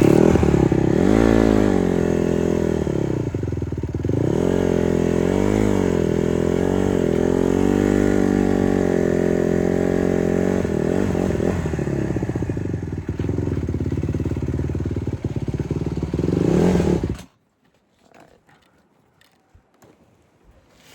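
Honda CRF150R's four-stroke single-cylinder dirt bike engine running, its revs rising and falling, then cutting off suddenly about 17 seconds in.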